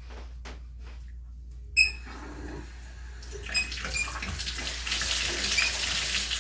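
A newly installed Delta shower head being test-run. A single sharp click comes a little under two seconds in. About three seconds in, water starts spraying and builds to a steady hiss of shower spray.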